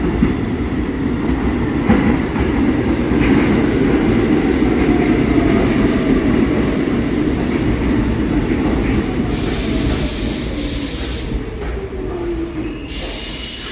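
New York City subway train of SMEE cars running on the G line, a heavy steady rumble with a whine that falls in pitch in the second half, the sound easing off near the end.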